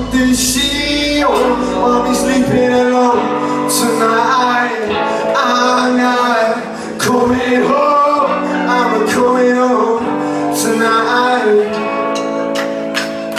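Live rock band playing, with a singing voice carrying a melody over sustained chords; the deep bass drops out about two and a half seconds in, and a few sharp hits sound over the top.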